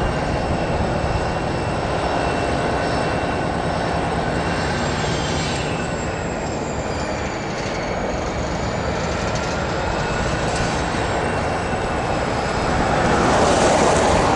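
Diesel freight locomotive working under load with a steady high-pitched squeal of steel wheels on rail, as it pulls the derailed car over re-railers. It swells a little louder near the end.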